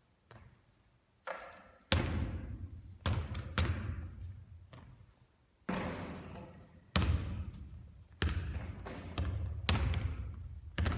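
A basketball hitting hard surfaces and bouncing during three-point shooting practice: about ten separate sharp thuds at uneven intervals, each ringing out with a long echo.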